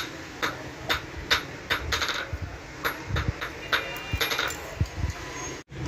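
Hammer striking metal by hand in a quick, uneven rhythm of about two blows a second, some blows leaving a short metallic ring; the sound cuts off abruptly near the end.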